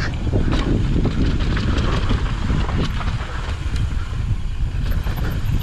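Mountain bike rolling fast down a dry, loose dirt trail: tyres crunching over dirt and rock with scattered short rattles and clicks from the bike, under heavy wind noise on the microphone.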